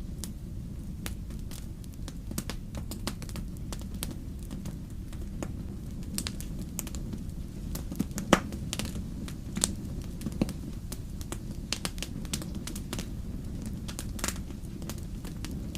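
Wood fire crackling in a fireplace: irregular sharp pops and snaps over a steady low rumble of the burning logs, with one louder pop about halfway through.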